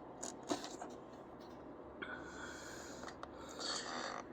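Faint rubbing and scraping as the oil filter housing cap is worked loose and the cartridge oil filter drawn out, with a few light clicks in the first second.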